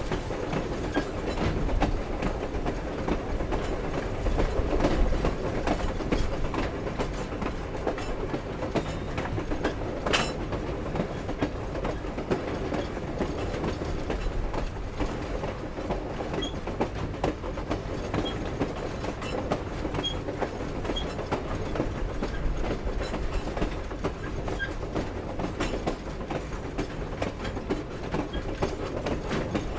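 Railroad cars of a train hauled by steam locomotive 4960 rolling along the track: a steady rumble with wheels clicking over the rails. There is one sharp clank about ten seconds in, and a few faint short squeaks later on.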